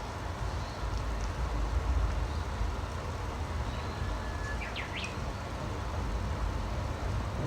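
A few short, rising wild bird chirps about two-thirds of the way through, with a few fainter high notes earlier, over a steady low rumble.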